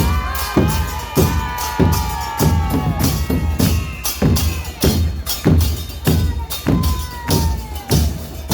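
Murga porteña percussion: bombos con platillo beating a steady march rhythm of about two strokes a second, each stroke with a cymbal crash, and a long held tone sliding slowly down over it.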